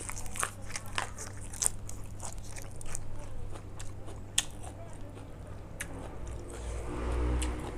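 A person biting and chewing food close to the microphone, with irregular crunchy, crackly bites and mouth sounds.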